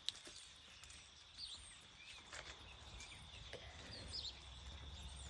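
Faint outdoor ambience: a steady high-pitched insect drone with scattered short bird chirps, and a single click just after the start.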